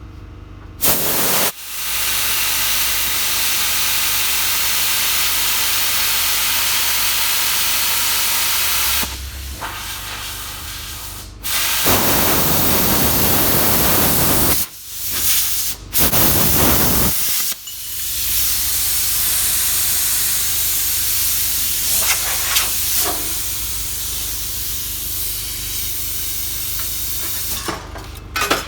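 Plasma cutter cutting through the steel cutter head of a wood chunker: a loud, steady hiss that stops and restarts several times as the cut is reprofiled.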